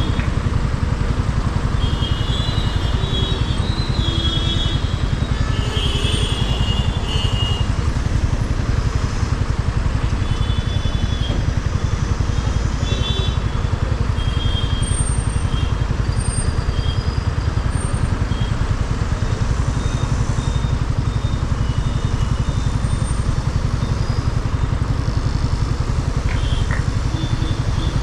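Motorcycle engine running steadily, with short faint high-pitched tones over it in the first few seconds and again about halfway through.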